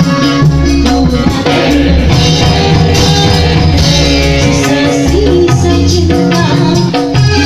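Loud music with heavy bass, a singing voice and bright hand percussion, played through a sound system during a sound check.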